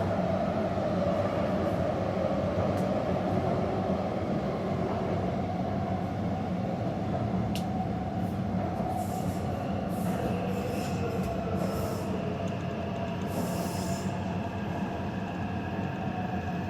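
Taipei Metro train running along the track: a steady rumble and motor hum, with higher whining tones joining about ten seconds in and several brief high hisses or wheel squeals between about 9 and 14 seconds.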